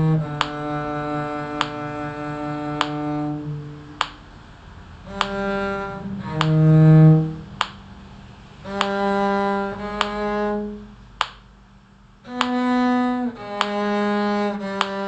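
Slow, sustained notes on a low bowed string instrument played with a practice mute, in phrases separated by short pauses. A sharp metronome-like click sounds about every 1.2 seconds throughout.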